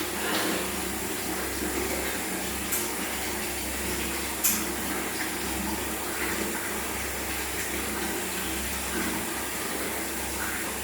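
Steady rush of running water during a kitten's bath, with two sharp clicks about three and four and a half seconds in.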